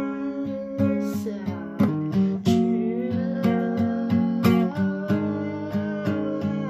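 Acoustic guitar music: strummed and plucked chords with a melody line over them.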